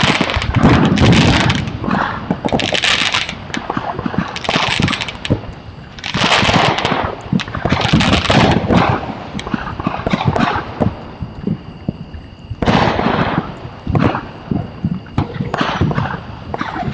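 Fireworks crackling and popping in rapid runs: about seven bursts of dense cracks, each around a second long, coming every second or two with a longer gap near the middle.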